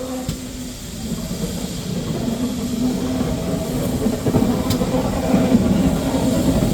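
A train approaching on the railway, its steady low running sound growing louder.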